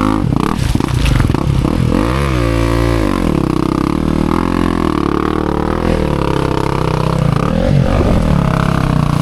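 Honda CRF250F dirt bike's single-cylinder four-stroke engine revving up and dropping back repeatedly under load while the bike is worked up a steep, rocky climb.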